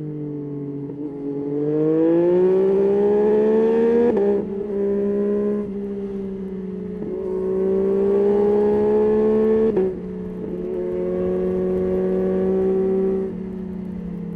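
Yamaha Tracer 9's three-cylinder engine under way, the revs climbing under throttle with short breaks about four, seven and ten seconds in, where gears change or the throttle eases, then backing off near the end.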